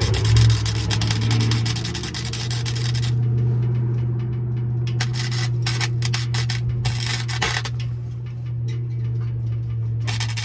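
Electric welding arc crackling in several stretches of a few seconds each, with pauses between, over a steady low hum.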